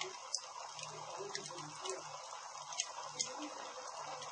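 Campfire crackling: irregular sharp pops and snaps of burning wood, about five clear ones, over a steady hiss of flame.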